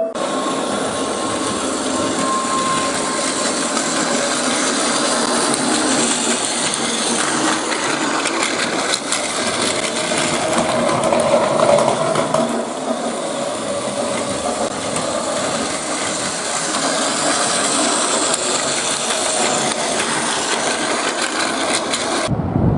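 Steady rushing running noise of a train, holding level for about twenty seconds and cutting off abruptly near the end.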